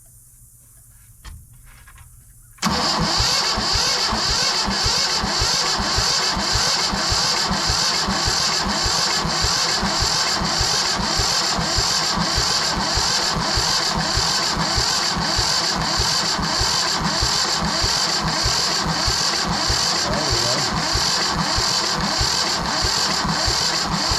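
Yanmar 1500 tractor's two-cylinder diesel engine being cranked over without firing, starting about two and a half seconds in and turning over steadily with about two compression pulses a second. An injector line is cracked open to bleed the fuel, and little fuel pressure is reaching the injector.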